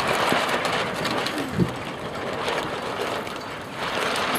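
Gusty wind noise with irregular rattling clicks and a single knock about a second and a half in.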